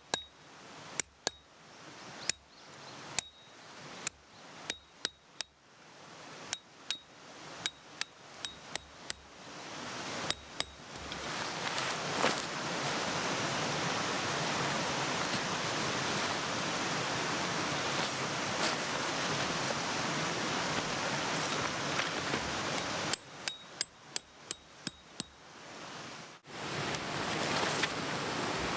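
Metal tent pegs being hammered in, sharp ringing strikes about one or two a second. After about ten seconds a steady rush of a mountain stream takes over, and a second quick run of strikes comes near the end.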